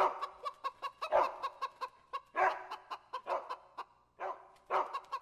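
Bird calls: short pitched calls repeated several times a second, with a few longer, louder calls mixed in.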